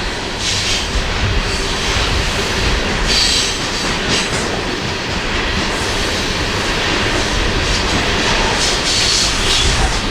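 Coal train cars rolling past on the grade: a steady rumble and rattle of wheels on rail, with short high wheel squeals several times.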